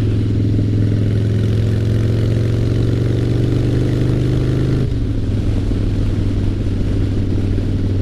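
2003 Harley-Davidson Fat Boy's 88 cubic inch Twin Cam V-twin running loud through straight drag pipes, its pitch rising steadily as it pulls. Just under five seconds in the pitch drops suddenly and the engine runs on lower.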